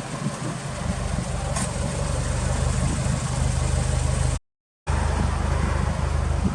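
Subaru WRX STI's turbocharged EJ20 flat-four running steadily at idle through an HKS aftermarket exhaust, with a brief cut to silence about two-thirds of the way through.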